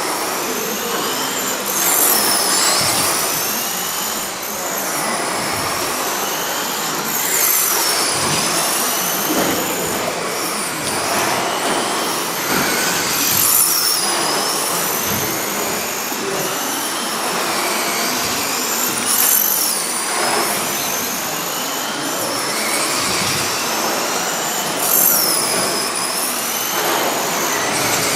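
A pack of radio-controlled stock trucks racing, their motors whining steadily over the noise of their tyres on the track. A high whine dips and rises again every five or six seconds as the trucks come round past the microphone.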